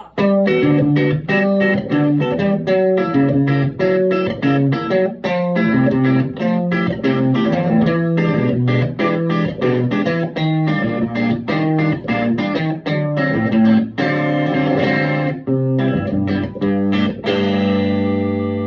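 Electric guitar played through a Vintage Sound Amp (VSA) amplifier: a steady run of picked single notes and double-stops, ending on a chord left ringing and fading near the end.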